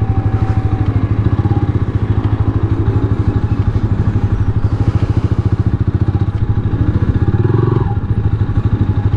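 Rusi Classic 250 motorcycle engine running steadily while riding, with a fast, even exhaust beat.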